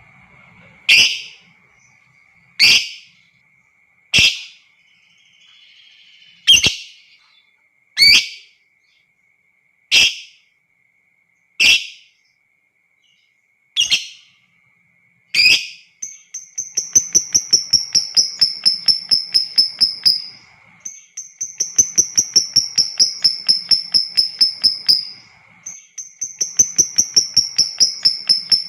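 Lovebirds calling: a string of single sharp chirps about every second and a half, then, about halfway through, long ngekek trills, three rapid chattering runs of about four seconds each over a high, slightly falling whistle.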